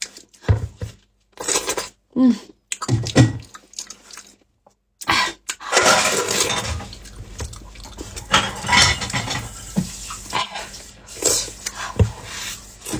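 Close-miked wet eating sounds of a person biting into and chewing soft avocado: a few short mouth sounds in the first seconds, then dense smacking and chewing from about five seconds in.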